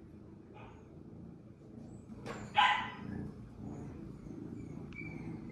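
A dog barks once, short and sharp, about halfway through, after a fainter yip near the start.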